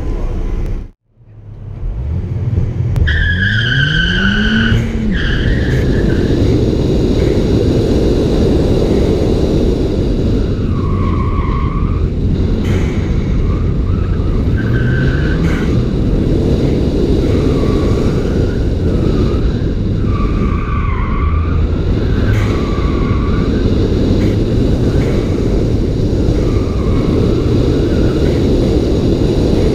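2014 Ford Fiesta ST's turbocharged 1.6-litre four-cylinder, with a Cobb cat-back exhaust, revving hard through an autocross run, with tyres squealing again and again through the corners. The sound cuts out briefly about a second in, then the revs climb.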